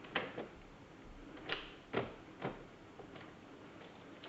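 A door's lock and handle being worked while the door stays locked: several sharp clicks and knocks in the first two and a half seconds, then fainter ones.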